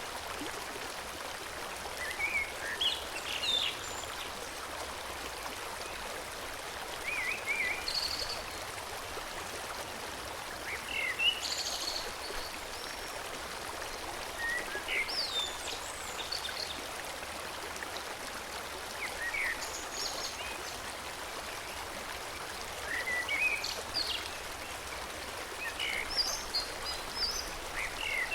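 A forest stream flowing steadily, with songbirds singing short chirping phrases every few seconds.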